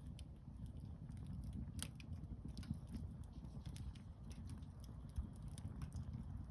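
Campfire crackling: burning wood giving irregular sharp snaps and pops over a steady low rumble, with one louder snap about two seconds in.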